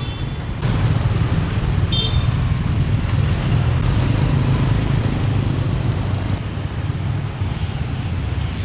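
Steady low rumble of engine traffic passing close by, louder from about half a second in, with one short high-pitched chirp about two seconds in.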